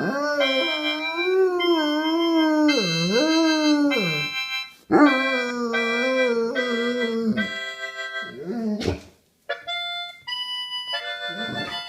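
A Spinone Italiano dog howls along with a harmonica. It gives two long, wavering howls, the first dipping in pitch partway through, then a couple of short rising-and-falling calls. The harmonica plays held notes and chords under the howls and carries on by itself in the last few seconds.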